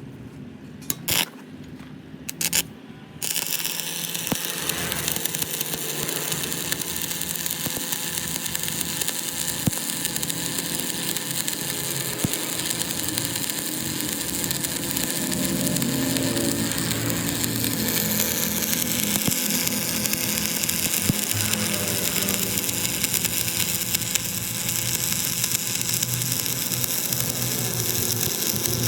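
A power tool starts about three seconds in after a couple of sharp clicks, then runs steadily and loudly, its pitch shifting down about two-thirds of the way through.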